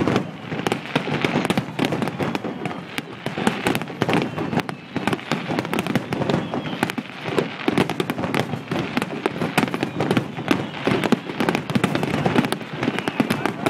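Aerial firework shells bursting in quick succession. Many overlapping booms and crackles run on without a break.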